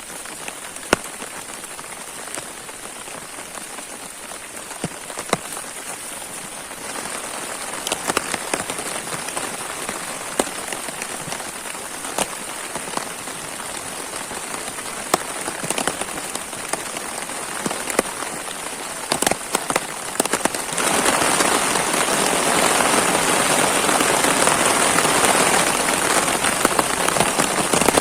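Rain falling steadily, with many sharp individual drop hits. It grows heavier about a quarter of the way in and becomes much heavier about three-quarters of the way through.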